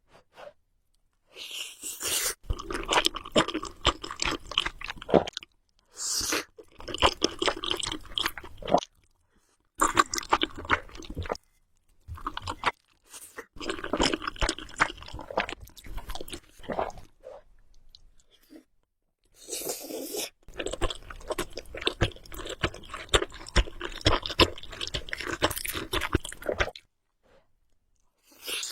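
Close-up mouth sounds of someone eating Samyang carbonara Buldak noodles: chewing in several long bursts of fine clicks and crackles, separated by short pauses.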